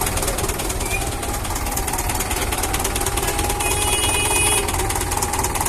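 Heavy diesel engine running with a steady knocking clatter.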